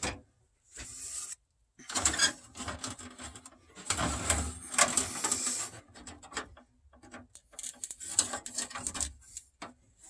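Close handling noise: several bursts of clicks, knocks and rubbing as the recording phone is set into a holder and small hard plastic model parts are picked up and fitted.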